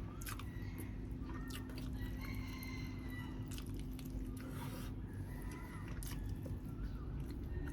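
Birds calling, short arching chirps and one held call, over a steady low hum, with scattered sharp clicks.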